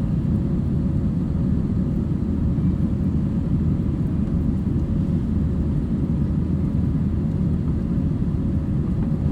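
Steady jet airliner cabin noise heard from inside the passenger cabin: a low rumble of engines and airflow with a faint steady hum, unchanging.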